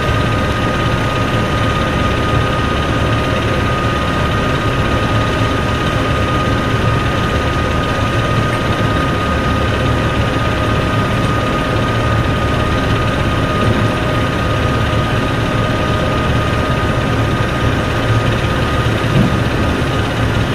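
A heavy engine running steadily: a low drone with a thin, steady high whine over it.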